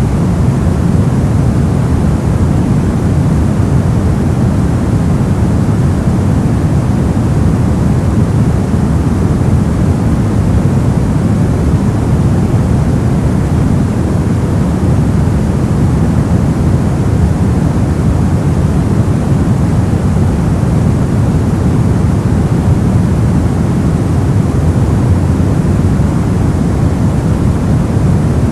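Steady brown noise: a constant, even rumbling hiss, heaviest in the low end, with no changes or events.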